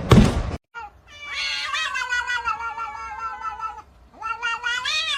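Domestic cat giving two long, drawn-out yowling meows, the first lasting about three seconds. A brief loud noisy burst comes just before them at the very start.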